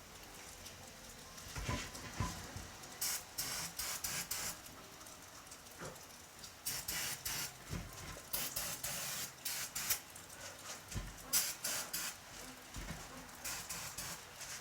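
Aerosol can of starter fluid sprayed in short hissing bursts, about half a second to a second each, several times over, with a few low knocks in between.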